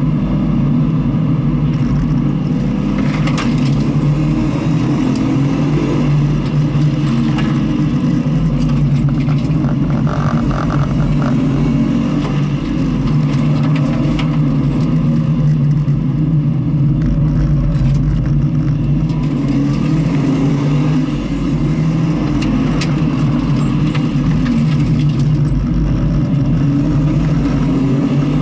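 Onboard sound of a vehicle's engine running hard around a race circuit, its pitch rising and falling with throttle and gear changes, over a steady low rumble.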